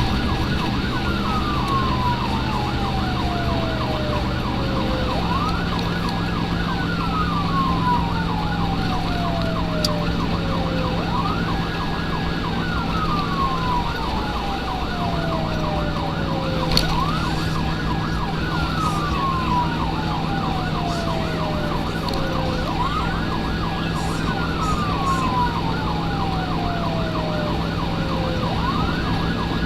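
Emergency vehicle siren on its wail setting: each cycle rises quickly, holds briefly at the top and slides slowly down, about five cycles in a row. A steady low vehicle engine drone runs beneath it.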